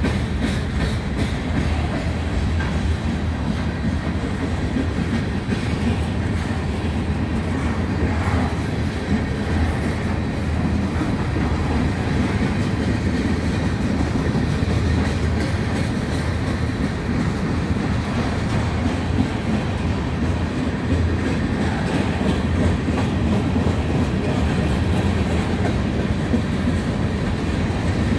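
Freight cars loaded with trash containers rolling past close by: a steady low rumble of steel wheels on rail.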